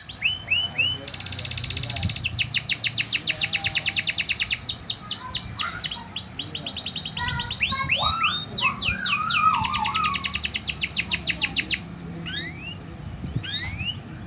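Eurasian tree sparrow chirping in long runs of rapid, repeated notes and quick downward-sweeping chirps, with short breaks between runs.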